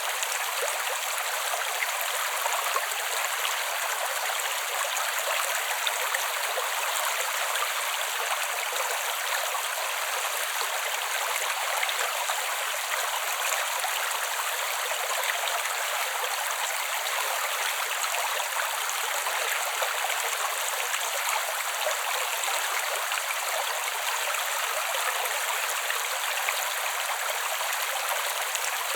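Creek water flowing over stones in a steady rushing babble.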